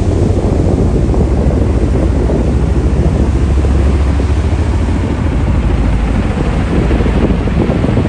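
Boeing CH-47 Chinook tandem-rotor helicopter flying past, its rotor blades beating rapidly over a deep low drone that is strongest around the middle.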